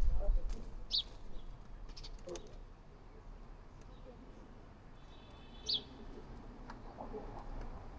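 Wild birds calling: a short, sharp high chirp about a second in and another about six seconds in, with fainter, lower calls between them. A low rumble or bump at the very start.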